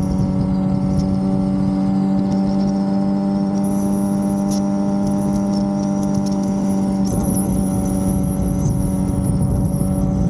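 Suzuki GSX-R750 inline-four motorcycle engine cruising at a steady speed, its note holding one pitch, with wind rumble on the microphone. About seven seconds in the engine note softens.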